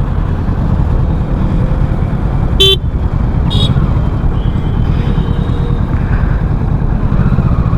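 Kawasaki Ninja 650's parallel-twin engine running steadily while riding, under a loud low road and wind rumble. Two short vehicle horn toots sound about two and a half and three and a half seconds in, followed by a fainter, longer horn.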